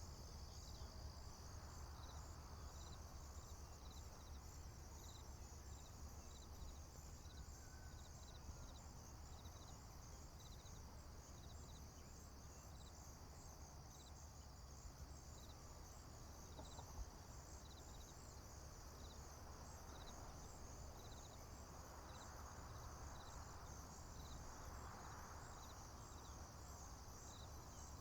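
Faint chorus of crickets and other field insects: a steady high trill, with one chirp repeating evenly a little over once a second. Under it is a low steady rumble and a soft rushing that swells over the last few seconds.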